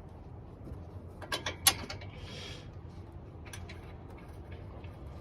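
Sharp clicks and clinks of hand tools and bolts being handled, a quick cluster about a second and a half in, then a short hiss and a few fainter clicks, over a steady low hum.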